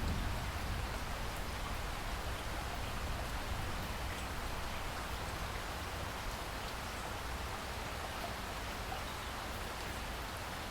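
Steady rainfall: a constant hiss of rain with scattered drops ticking on surfaces.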